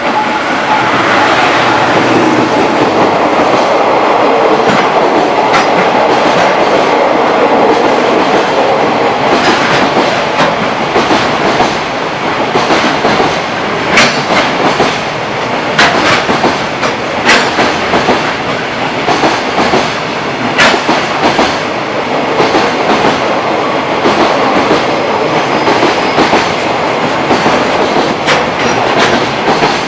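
Freight train hauled by an EF210 electric locomotive passing through at speed: a continuous rumble of wagon wheels clattering over the rail joints, with several sharp metallic clicks in the second half.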